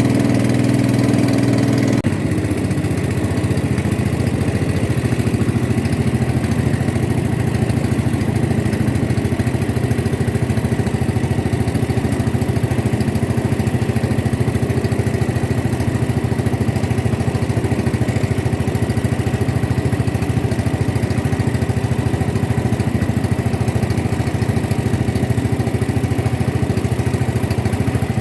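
Boat engine running steadily, its note changing about two seconds in.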